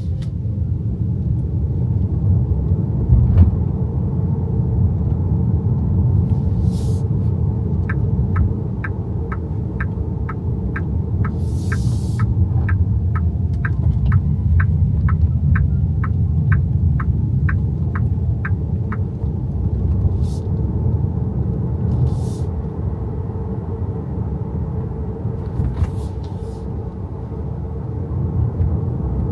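Low road and tyre rumble inside the cabin of an XPENG G6 electric SUV on the move, with no engine note. In the middle the turn-signal indicator ticks evenly at about two clicks a second for some ten seconds, then stops.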